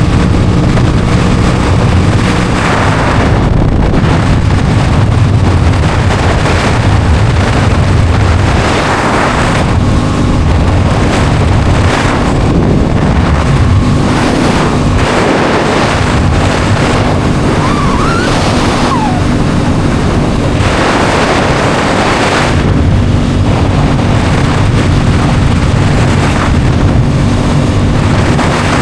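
Aprilia Tuono 660 Factory's parallel-twin engine running while riding, with heavy wind noise on the microphone that swells and fades over and over.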